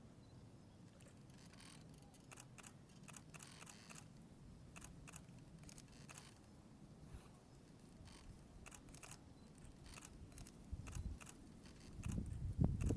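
Faint, irregular small clicks and light rustling, coming more often after a couple of seconds, over a low steady hum; a louder low rumbling thump sets in near the end.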